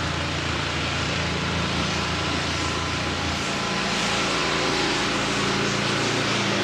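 A motor vehicle running close by on the street, its low engine hum dropping away about three and a half seconds in as traffic noise swells.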